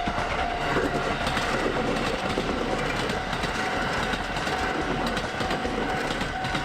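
A train running over a level crossing on the JR Hakodate Main Line, its wheels clattering on the rails. Under it a steady ringing tone keeps sounding: the crossing's warning alarm.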